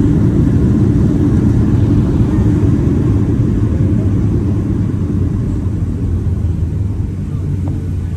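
Loud, steady low rumble of a Boeing 737-700 heard from inside the cabin as it rolls out on the runway after touchdown, fading slowly as the jet slows down.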